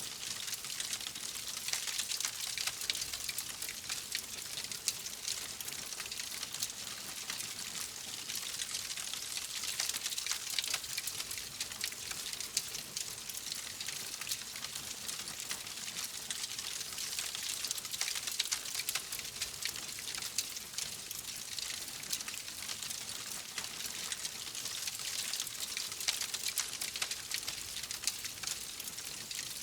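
Wood fire crackling steadily: a continuous hiss of flames with dense small pops and snaps, a few louder ones scattered throughout.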